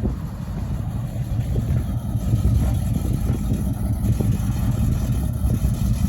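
1967 Buick GS 400 Stage 1's 400 cubic-inch V8 running, a deep, pulsing exhaust rumble that grows louder over the first two seconds or so and then holds steady.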